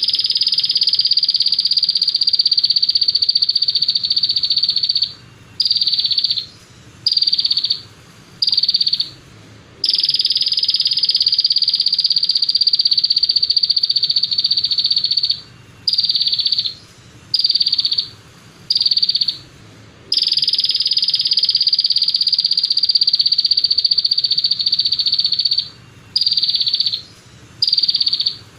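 Rapid, buzzy, high-pitched bird trill from a song-tutoring (masteran) recording, played as 'tembakan' rapid-fire song. It runs in long unbroken trills of about five seconds, each followed by four short trills about a second apart, and the pattern repeats three times.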